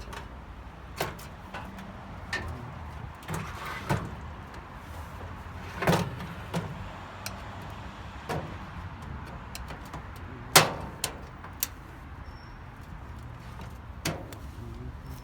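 Irregular clicks and knocks of hand tools and sheet-metal parts while a microwave oven is being dismantled, the loudest knock about ten and a half seconds in, over a steady low hum.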